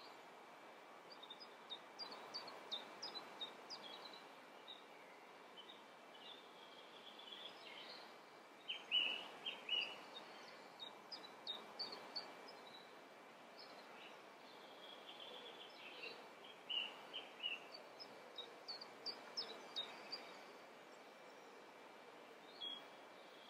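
Faint birds chirping: several bouts of short, high chirps and trills over a low steady hiss.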